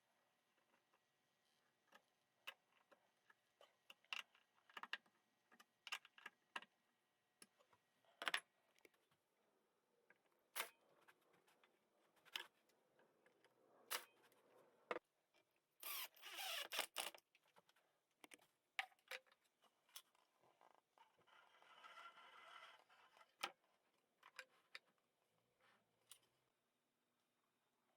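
Scattered light clicks and knocks of workshop parts being handled, with a brief scraping rustle a little past halfway.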